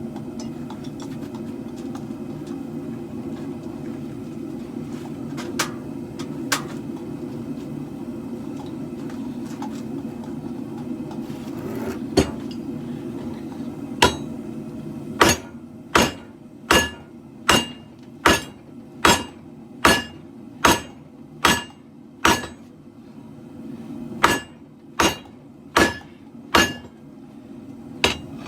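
Steady roar of a propane forge, then hand-hammer blows on hot steel, about one and a half a second with a short pause, each leaving a bright ring as the leaf-spring steel is drawn out into a blade.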